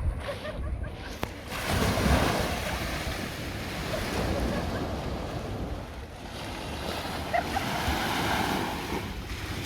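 Sea waves washing onto the shore, swelling about two seconds in and again near the end, with wind rumbling on the microphone.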